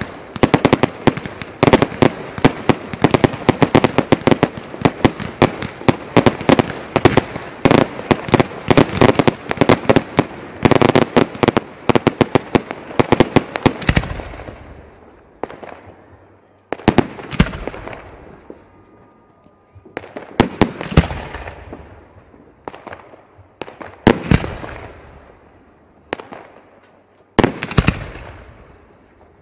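Fireworks going off: a dense, rapid barrage of overlapping bangs and crackles for about the first half, then it thins to separate loud booms a second or few apart, each with a long echoing tail.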